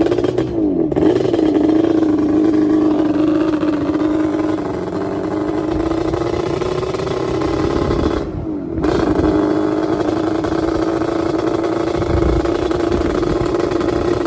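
Motor vehicle engine running at a steady, held speed while driving, its pitch dipping briefly and coming back up twice.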